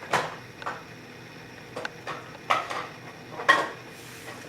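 Several sharp knocks and clatters of small hard objects being handled and set down, the loudest near the start and about two and a half and three and a half seconds in.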